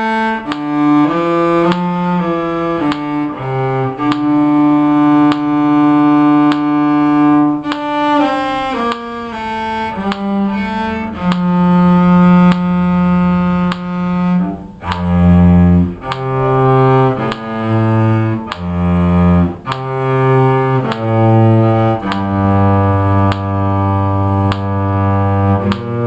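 A bowed cello playing a slow solo melody in quarter notes, moving from note to note about once a second, some notes held longer, in the instrument's lower range.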